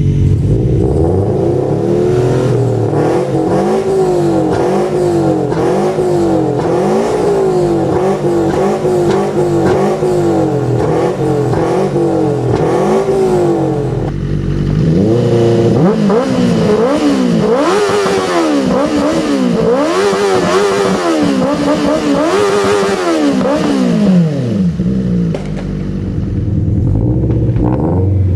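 Engine on an aftermarket exhaust being revved in quick repeated blips, then, after a brief drop about halfway, in longer, higher revs, settling back to idle near the end.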